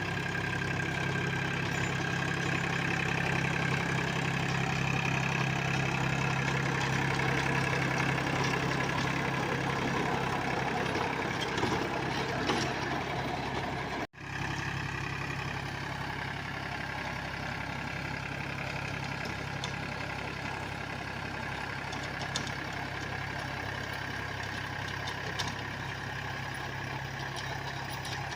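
Powertrac Euro 45 Plus tractor's diesel engine running steadily while puddling a field. The sound cuts out abruptly for an instant about halfway through, then resumes slightly quieter.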